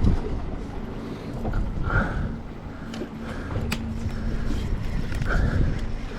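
Wind buffeting the microphone over the low rumble of a boat at sea, with a faint steady hum and one sharp click about two-thirds of the way through.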